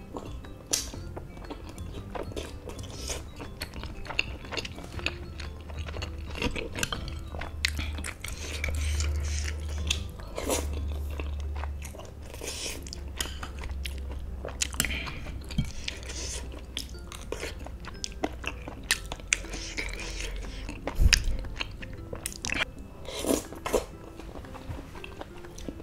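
Close-up chewing and slurping of spicy noodles and boneless chicken feet: an irregular run of wet mouth smacks and clicks, with noodles sucked in.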